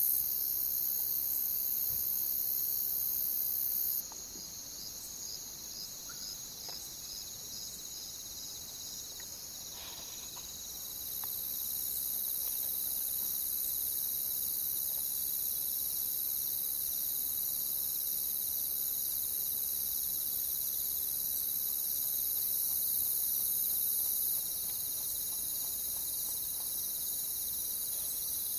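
Crickets chirping steadily in a continuous high trill, with a slower pulsing chirp running through it. The sound drops in level about four seconds in and comes back up a few seconds later.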